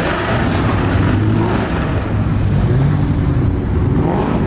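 Car engine running loud and steady, its pitch wavering slightly and edging up near the end.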